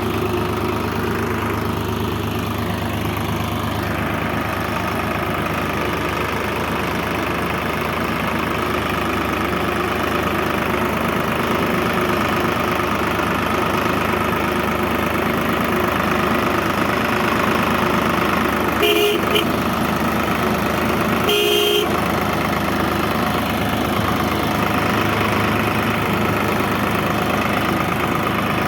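Tractor engine running steadily, with two short horn toots about two and a half seconds apart past the middle.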